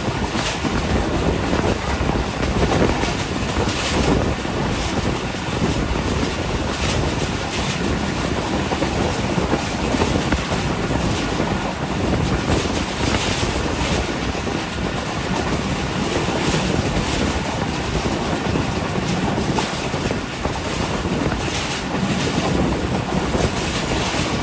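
Passenger train coach running along the main line, heard from its open doorway: a steady rush of wheels on rails and air streaming past, with a faint click now and then.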